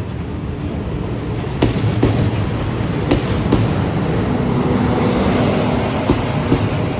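Train rolling past: a steady low rumble with sharp clicks, often in pairs, as wheels cross rail joints. A steady hum joins about halfway through.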